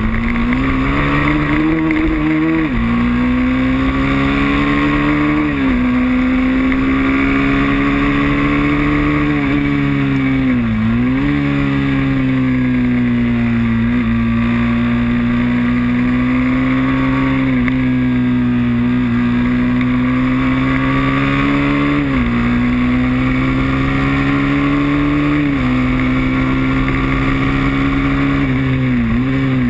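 Moto3 racing motorcycle engine at high revs, heard from onboard with wind rush over the microphone. The engine note dips sharply and climbs back several times, about every three to five seconds.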